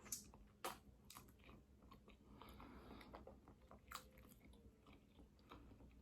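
Faint close-miked mouth sounds of a person chewing food in sauce: wet clicks and lip smacks, with a few sharper ones near the start and about four seconds in.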